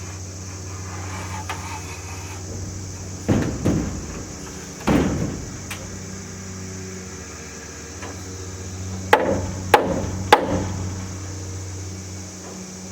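Hammer blows driving nails into wood: three strikes, a pause of a few seconds, then three more. A steady low hum runs underneath.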